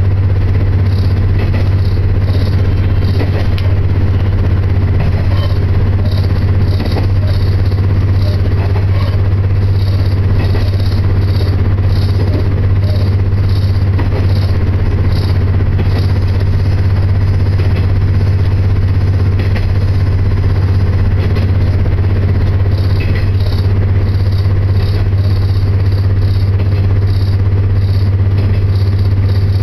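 Diesel railcar running at speed, heard from inside the passenger cabin: a steady, loud low engine drone under the rumble of the moving train, with a high hiss that pulses evenly in stretches.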